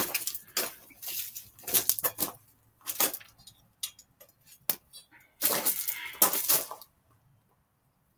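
Irregular metallic clicks, knocks and scrapes of hand tools working on bicycle parts, loosening a fitting, in two bursts of activity.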